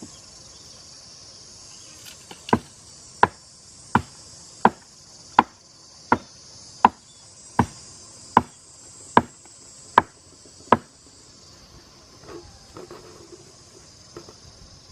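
Steady high-pitched insect chorus, like crickets, under a run of about a dozen sharp, evenly spaced knocks, a little under a second apart, starting a couple of seconds in and stopping after about eight seconds. A few softer knocks follow near the end.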